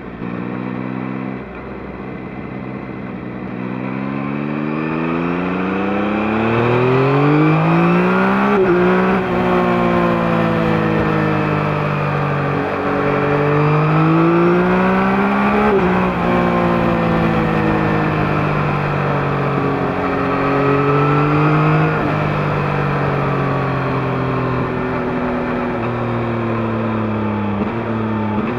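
2021 Yamaha MT-09's CP3 three-cylinder engine through its stock exhaust, heard from under the seat while riding. The revs climb, drop sharply at gear changes about nine and sixteen seconds in, climb again, then fall away as the bike eases off near the end.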